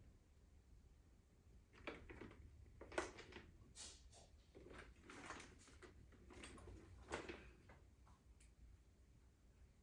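Faint handling sounds from unboxing a robot vacuum: about five scattered knocks and scrapes of parts and packaging being picked up and set down.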